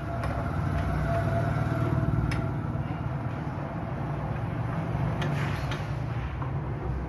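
A steady low mechanical hum, like a running motor, with a few light clicks and knocks.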